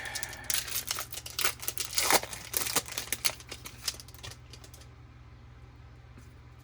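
Foil wrapper of a 2020 Topps Series 1 baseball card pack being torn open and crinkled, a quick run of crackles that stops about five seconds in.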